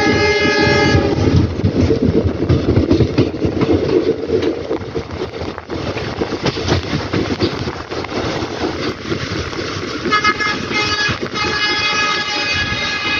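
Moving passenger train heard from a coach window. A train horn sounds until about a second in, then the wheels rumble and clatter over the rails, and the horn sounds again from about ten seconds in.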